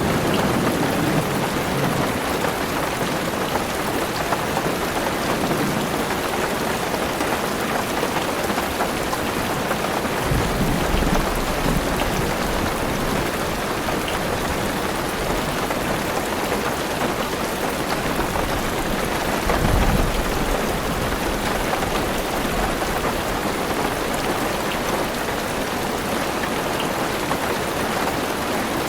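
Heavy rain drumming steadily on a car's roof and windows, with low rolls of distant thunder about ten seconds in and again near the twenty-second mark.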